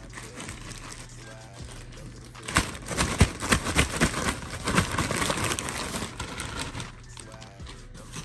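Packaging crinkling and rustling as it is handled, with a dense burst of crackling from about two and a half seconds in until about six and a half seconds in.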